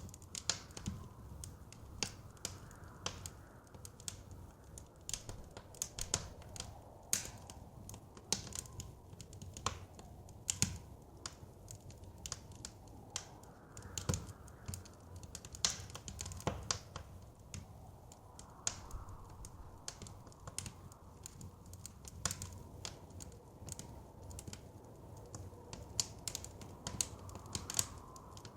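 Wood fire crackling in a fireplace: irregular sharp pops and snaps over a low rumble of the flames, with soft wind swelling and fading behind it.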